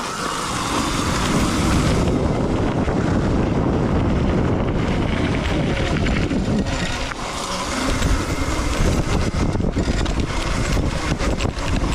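Electric dirt bike being ridden off-road, heard as a steady rush of wind and rough, jolting noise from the ride, with no engine note.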